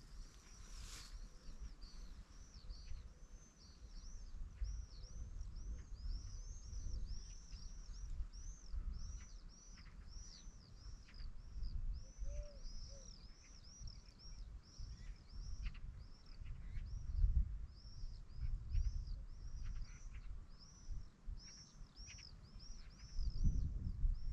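A small bird chirping over and over, short arched notes about two or three a second, over a low rumble of wind and movement that swells near the end.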